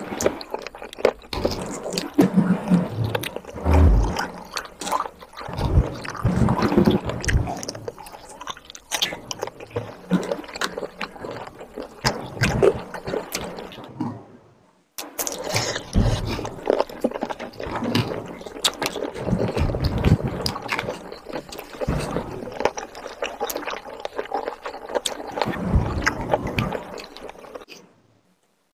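Close-miked wet chewing and lip-smacking of chicken curry and rice eaten by hand, with squelching of gravy-soaked rice and chicken. There is a brief silent break about halfway.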